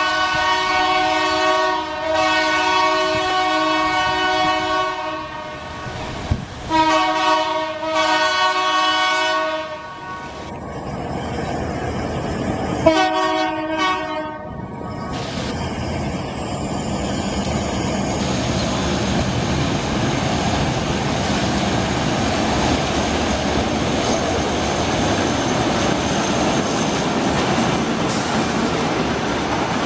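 Diesel locomotive air horn sounding three blasts in chord, a long one, one of about three seconds and a short one. Then the two GE U11B diesel locomotives of a work train pass close by, engines running and wheels clattering over the rail joints, the noise building as they come alongside.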